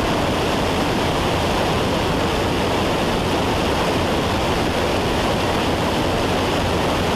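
Steady cockpit noise of a Cessna 172 in cruise flight: engine, propeller and airflow blending into a continuous, even rush.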